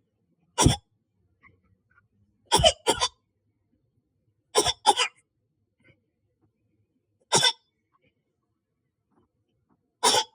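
A person coughing and hacking in short, separate bursts, imitating a cat trying to bring up a hairball: one cough, two quick pairs, then two more single coughs.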